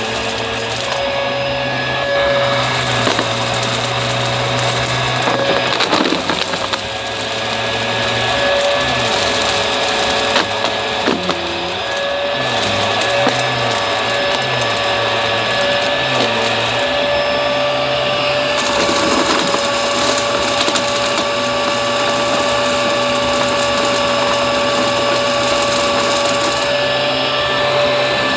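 Upright vacuum cleaner running with a steady motor whine and a low hum that wavers for a few seconds near the middle. Occasional clicks and crackles come through as debris is sucked up.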